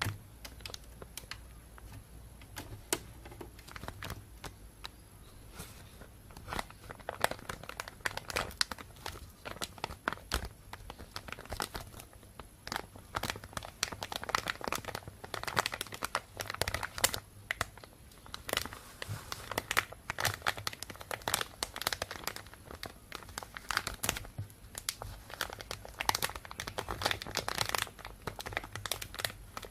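Thin plastic bag crinkling and rustling as it is handled, in dense, irregular crackles.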